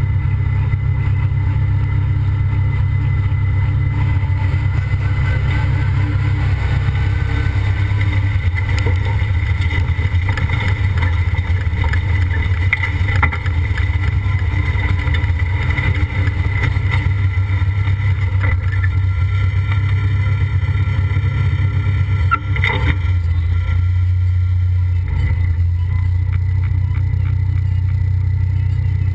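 Competition pulling tractor's engine running hard and steady under full load as it drags the weight-transfer sled, heard from the sled, with a brief sharp knock a little over twenty seconds in.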